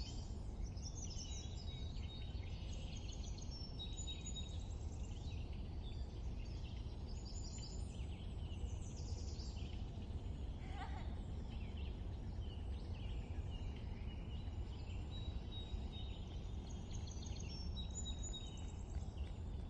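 Several small birds chirping and singing in quick, overlapping calls, over a steady low rumble of background noise.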